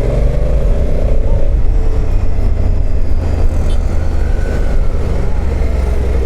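Honda CRF1100L Africa Twin motorcycle moving off, with a steady low rumble of engine and wind.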